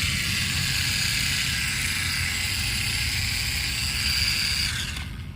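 Small electric motor of a radio-control toy running with a steady high whine, cutting off about five seconds in.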